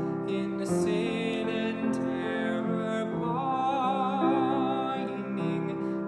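A classical solo voice singing a slow Christmas song with wide operatic vibrato, accompanied by piano; the voice comes in more strongly about halfway through on long held notes.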